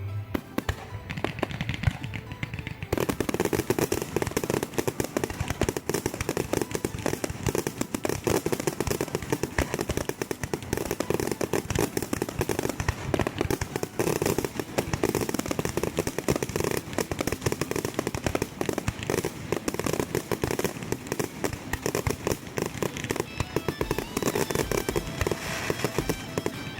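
Aerial fireworks going off in a rapid barrage: many bangs and crackles in quick succession, growing dense about three seconds in and staying dense.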